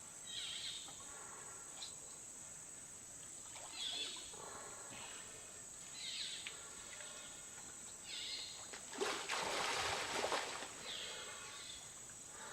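Tropical lakeside ambience: a steady high insect drone with falling calls repeating every two or three seconds. About nine seconds in there is a louder rush of splashing water lasting over a second.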